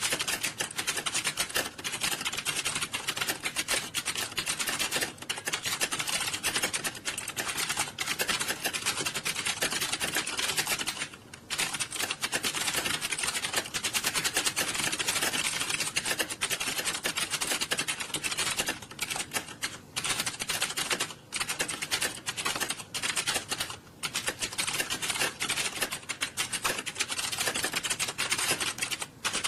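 Many computer keyboards being typed on fast at the same time, a dense, continuous clatter of keystrokes, as in a typing-test hall; it thins out briefly a few times.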